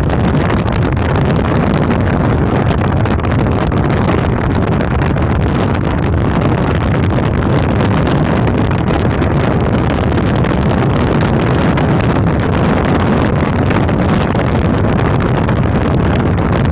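Loud, steady wind rush over the microphone of a camera riding on a moving motorcycle.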